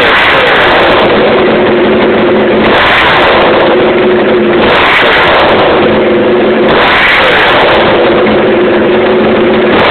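Honda RVF400's V4 engine running with no exhaust, revved up and held at high revs four times in a row, very loud enough to overload the recording.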